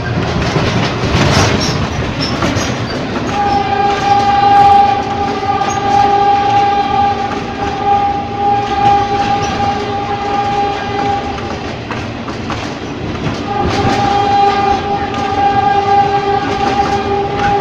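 Ex-JR 203 series electric multiple unit running on the rails, with its horn held in one long steady blast for about eight seconds, a break of two seconds, then a second long blast.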